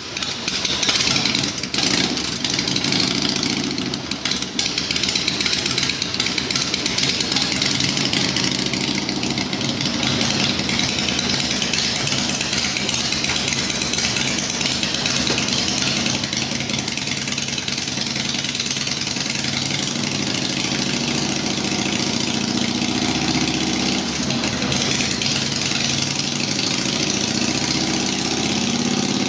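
2003 Harley-Davidson Softail's 88-cubic-inch Twin Cam V-twin running steadily on a drum dynamometer. Its pitch climbs slowly over the last several seconds.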